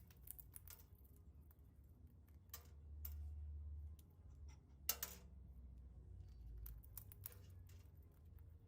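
Faint, irregular small clicks and cracks, the sharpest about five seconds in, typical of a galah cockatoo working food with its beak, over a low steady hum.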